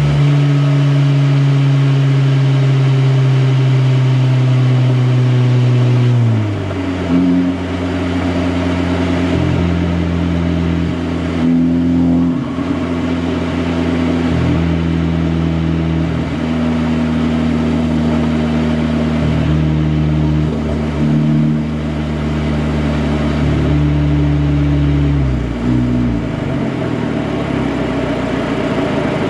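Honda Civic Type R FL5's modified turbocharged four-cylinder running at steady revs with a deep exhaust drone. The revs drop about six seconds in, hold steady with small changes, then fall again near the end.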